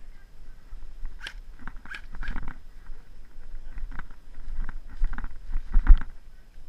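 Footsteps crunching and rustling through dry leaf litter and twigs on a woodland floor, in irregular clusters, the loudest near the end.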